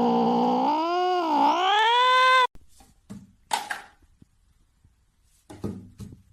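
A cat yowling in one long drawn-out call that sinks in pitch, dips twice and rises again, then cuts off abruptly about two and a half seconds in. A few short, faint knocks or rustles follow.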